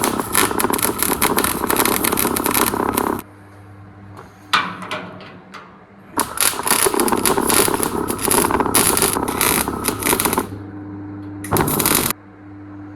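Electric welder's arc crackling and sizzling in three runs: a long one at the start, a longer one in the middle and a short burst near the end. Between the runs the welder hums steadily, with a few light clicks.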